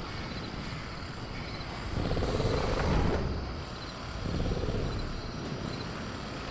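Sound-effect velociraptor growling low in two long rumbling swells, about two and four and a half seconds in, over a steady low rumble, with faint crickets chirping.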